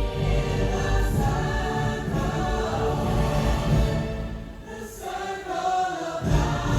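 Orchestral show music with a choir singing long held notes over a deep low bass, thinning out briefly past the middle before the voices come back in.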